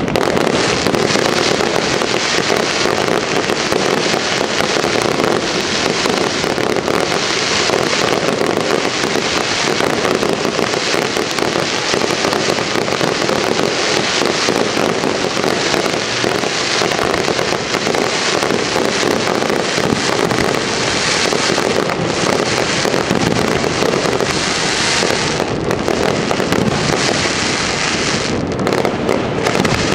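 Fireworks display at close range: a dense, unbroken run of overlapping shell bursts and crackles.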